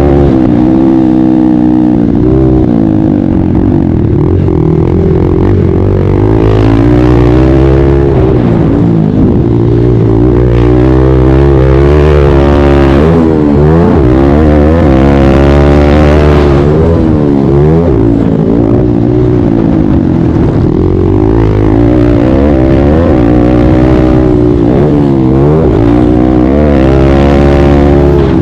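Kawasaki KLX140 pit bike's single-cylinder four-stroke engine racing on a motocross track: loud throughout, its pitch climbing and dropping over and over every second or two as the throttle is opened and chopped. At moments a second engine's pitch crosses it.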